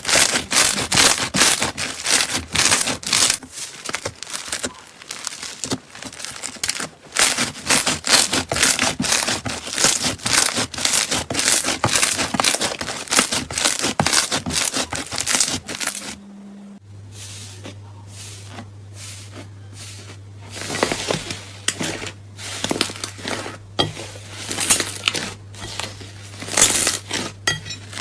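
Slime being squeezed and stretched by hand, giving rapid crackling and popping. About two-thirds of the way through it cuts to another clip, where sparser pops sit over a steady low hum.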